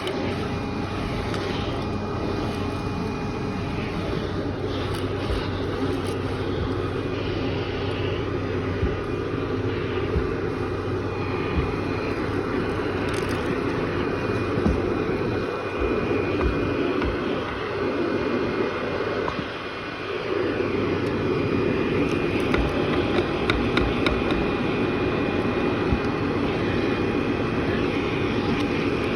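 Vacuum cleaner running steadily on carpet, its motor a constant drone, with scattered small crackles of debris being sucked up. The sound dips briefly about two-thirds of the way through, then comes back slightly louder.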